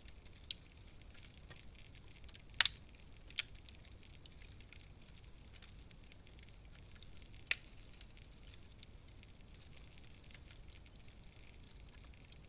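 Wood fire crackling in a fireplace: a handful of sharp, irregular pops over a faint steady hiss, the loudest about two and a half seconds in.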